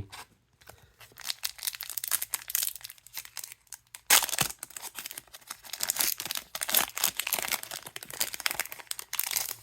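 A foil-wrapped trading card booster pack being crinkled and torn open, with a sharp rip about four seconds in among continuous crackling of the wrapper.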